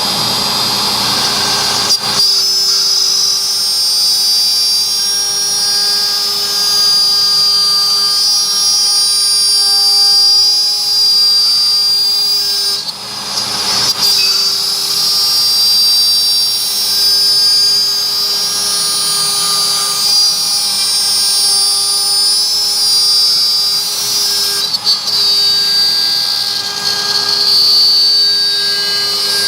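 CNC router spindle cutting wood: a steady high whine over a lower hum, dipping briefly about halfway and again near the end.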